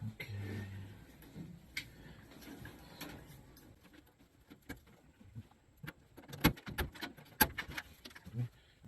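Scattered clicks and knocks of tools and metal parts being handled while a motor is being removed, with a cluster of louder sharp knocks about six to seven and a half seconds in.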